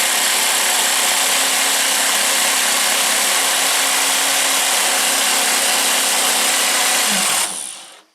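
Homemade scroll saw table running with a steady mechanical whine, then switched off about seven and a half seconds in and quickly winding down. It is a test run of the saw's new bearing blade guide, which still leaves the blade some play.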